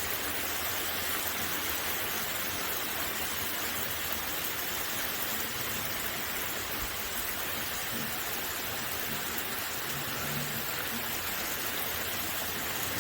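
Steady heavy rain pouring down: an even, unbroken hiss of a summer rainstorm.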